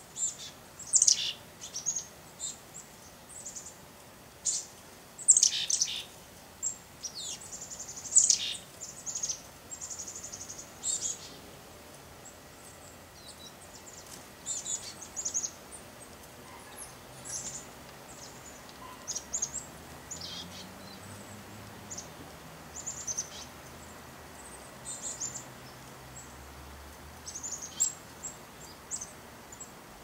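Small songbirds chirping: many short, high chirps in quick clusters, busiest in the first ten seconds or so, then scattered calls.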